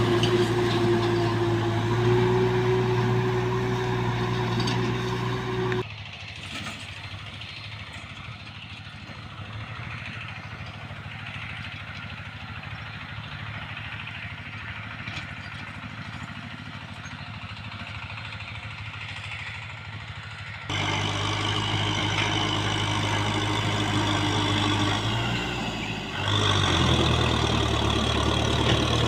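Small tractor engine running steadily while plowing. About six seconds in it cuts off abruptly to a quieter hiss, and about 21 seconds in it comes back just as suddenly, changing pitch near the end.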